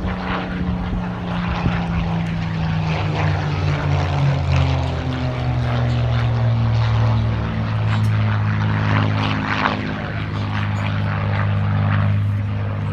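Supermarine Spitfires' Rolls-Royce Merlin V12 engines droning in a display flypast. The engine note falls in pitch over the first few seconds as they pass, then holds steady.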